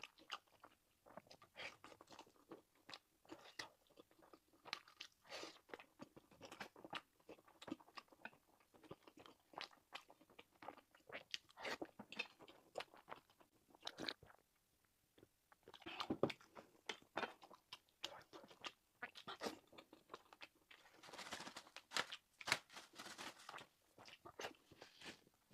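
Close-miked eating of egg fried rice and sliced sausage: irregular wet mouth clicks, smacks and soft crunching of chewing, with a short pause a little past halfway.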